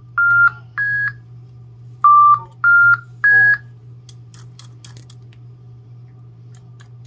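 A three-note electronic beep signal, each note steady and a step higher than the last, played twice: the command tones that cue Digibirds toy birds to start singing together. A few faint clicks follow.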